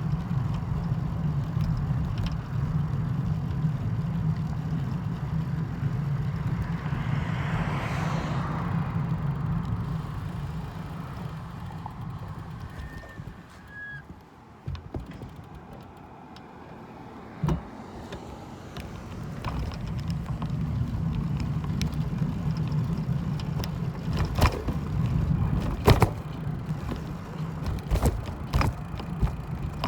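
Steady low rumble of vehicle noise. It swells briefly about eight seconds in, fades in the middle, and comes back, with several sharp knocks near the end.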